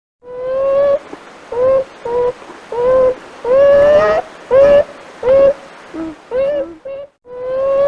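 An animal calling over and over: a run of short pitched notes, some rising and some falling, with a brief pause about seven seconds in before the calls start again.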